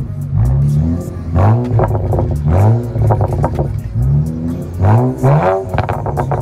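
BMW 335i's turbocharged straight-six revved in short blips at the exhaust, about five times, each rising in pitch and dropping back.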